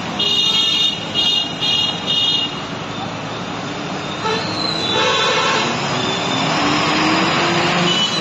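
A vehicle horn gives four short honks in quick succession, followed by loud traffic noise with an engine climbing slowly in pitch.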